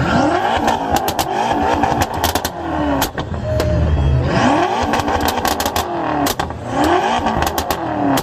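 Car engine with a very loud exhaust being revved: three rising revs, each falling back, about three and a half seconds apart. Many sharp cracks run through it.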